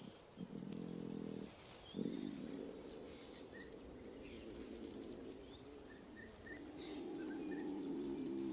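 A sick lion cub in distress during a seizure, giving a few drawn-out, low moaning calls. Birds chirp and insects buzz steadily behind them.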